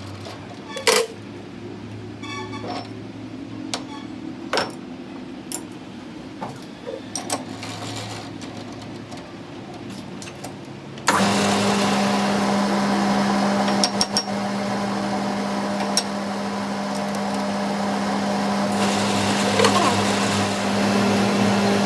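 Scattered light metal clinks and knocks of workshop handling, then about halfway through a machine starts abruptly and runs steadily with a strong low hum and a wash of noise.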